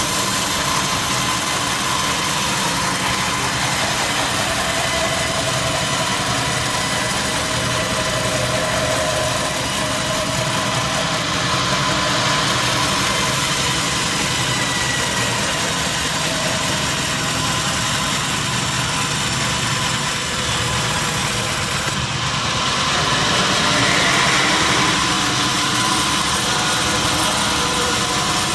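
Sawmill machinery running steadily with a continuous engine-like hum and whine, swelling slightly for a few seconds near the end.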